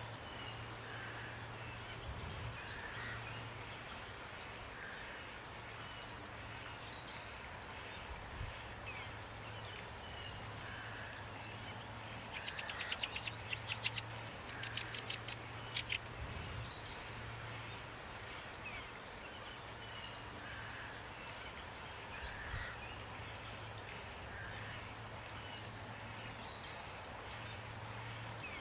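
Steady rain falling while songbirds sing: repeated quick, high, falling chirps throughout, and a rapid rattling trill about halfway through. A low hum comes and goes underneath.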